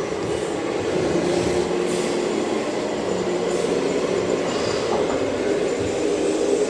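Radio-controlled model vehicles running: a steady mechanical drone of motors and gearing.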